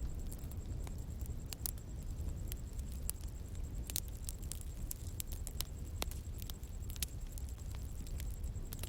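Outdoor bonfire burning, with irregular sharp crackles and pops from the burning wood over a steady low rumble of the flames. A faint steady high-pitched tone runs underneath.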